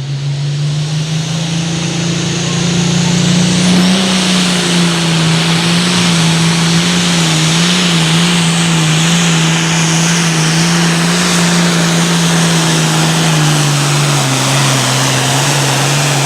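Super Farm class turbocharged diesel pulling tractor running flat out under load down the pull track. The engine note is loud and steady, climbing slightly over the first few seconds and sagging a little near the end.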